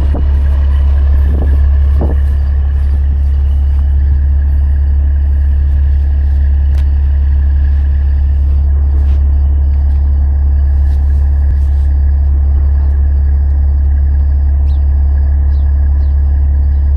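Truck engine idling with a steady low rumble, with a few light clicks and taps over it.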